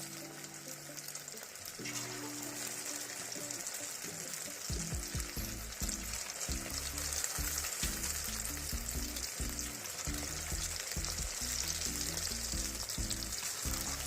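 Cornflour-and-egg-battered chicken pieces sizzling steadily as they deep-fry in hot vegetable oil.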